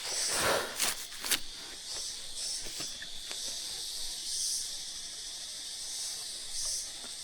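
Insects chirring steadily in the background, a high hiss that swells in soft pulses, with a few sharp knocks and a rustle in the first second and a half.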